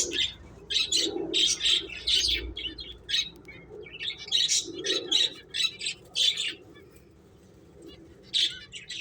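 Pet finches chirping in quick, short, high calls, several birds overlapping in bursts, with a lull of about a second and a half near the end.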